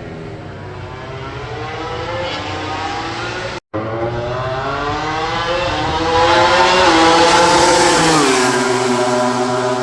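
MotoGP racing motorcycle engine at high revs, its pitch climbing for several seconds, then dropping and levelling off near the end. The sound cuts out for an instant a little over a third of the way in.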